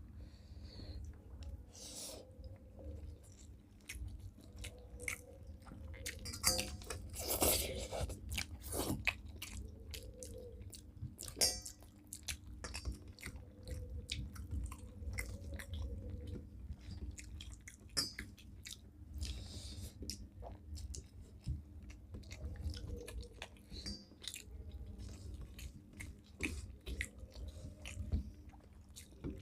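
Close-up chewing and mouth sounds of people eating rice and boal fish curry, with frequent small smacks and clicks, over a steady low hum.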